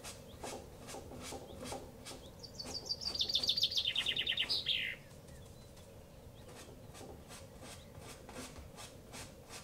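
A small bird singing a fast trill of repeated high notes that steps down in pitch and ends in a quick downward sweep, lasting about two and a half seconds from about two seconds in. Under it, soft scratchy taps of a paintbrush dabbing and flicking paint on canvas, about two a second.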